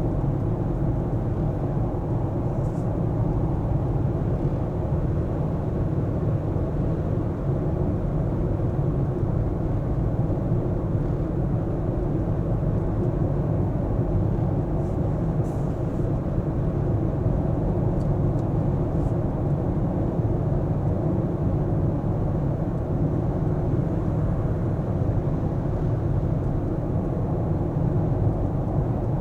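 Car driving through city streets: steady low rumble of tyres and engine, with a few faint high clicks.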